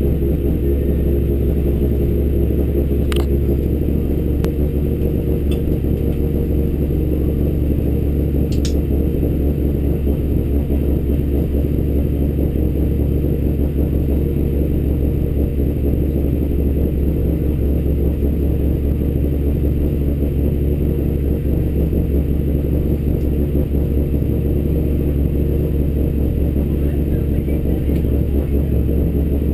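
Honda Civic Type R EP3's four-cylinder engine idling steadily, heard from inside the cabin, with a few light clicks in the first ten seconds.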